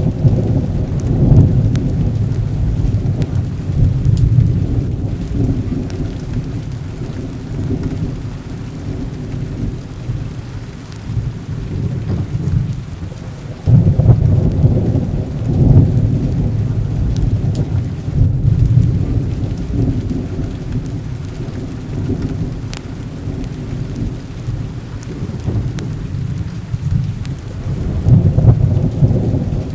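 Heavy rain falling steadily under rolling thunder. Low rumbles swell at the start, break in suddenly and loudly about halfway through, and build again near the end.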